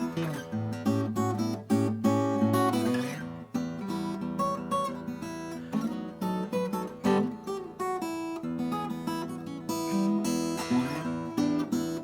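Vintage Japanese acoustic guitar being played, with a quick run of plucked notes and chords over ringing bass notes and a few sliding notes.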